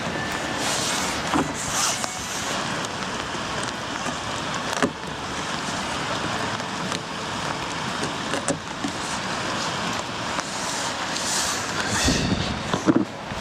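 Steady outdoor rushing noise with scattered clicks and knocks, the loudest knocks coming near the end.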